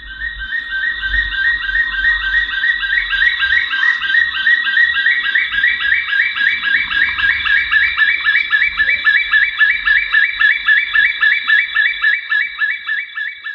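Black-fronted nunbirds (Monasa nigrifrons) calling in a long rollicking chorus: rapid runs of repeated notes, with several strands overlapping as more than one bird joins in.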